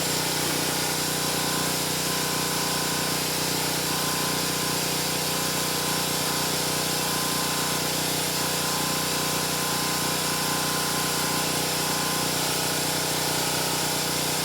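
Steady mechanical drone from a running motor or engine: a hum with several even pitched tones and a hiss over it, unchanging throughout.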